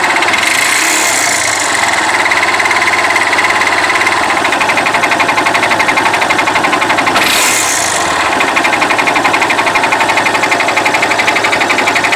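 Yamaha Fazer 250's air-cooled single-cylinder engine running with a rapid, even pulsing and a strange mechanical noise of unknown cause, which began recently at about 50,000 km. A hiss swells briefly twice, about a second in and again past the middle.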